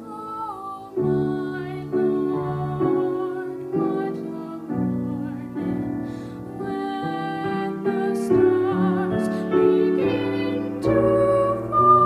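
Piano playing slow chords, a new chord struck about every second, with a held melody note above it near the end.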